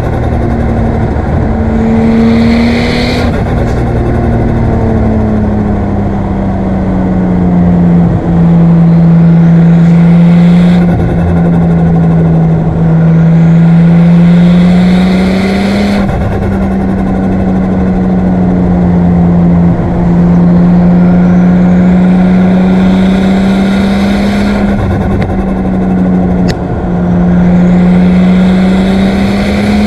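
Nissan Skyline R34's turbocharged RB25DET straight-six pulling at steady mid revs, the pitch drifting up and down. Several brief throttle lifts or gear changes come with short hissing rushes of turbo air.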